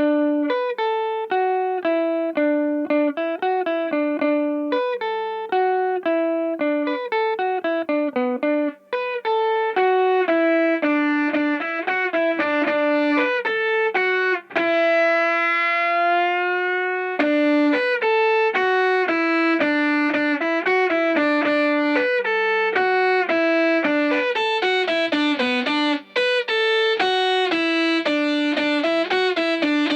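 Synth lead from a Boss SY-1 guitar synthesizer pedal, triggered by an electric guitar: a fast melodic run of quick notes, with one long held note bending slightly upward about halfway through and a low note sustained underneath at times.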